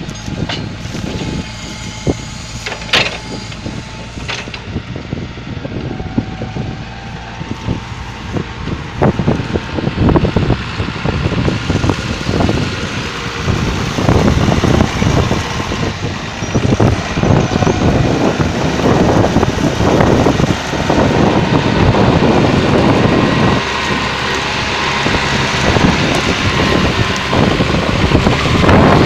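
Case 150 hp tractor's diesel engine running under load while plowing, a steady drone mixed with rattling and clatter that grows louder about halfway through.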